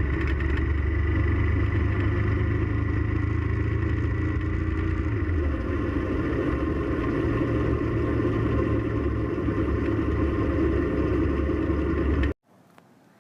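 Motorcycle riding on the road, its engine running steadily with wind and road noise, as picked up by a GoPro clamped to the rear crash bar. The engine note dips a little about five seconds in, and the sound cuts off suddenly near the end.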